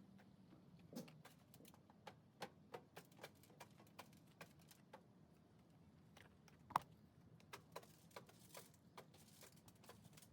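Faint, irregular clicks and taps over near silence, with one sharper knock about seven seconds in.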